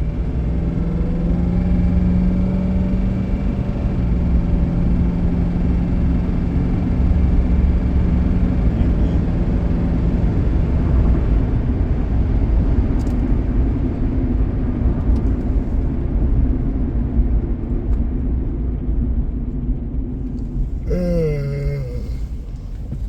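Car in motion heard from inside the cabin: a steady low engine and road rumble, with a humming drone that fades out about nine seconds in.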